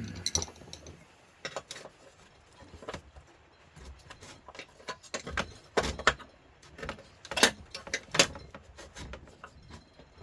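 A flat metal tool, screwdriver or chisel, prying and scraping at a George Foreman grill's casing: irregular clicks, scrapes and knocks, a few of them sharper in the second half.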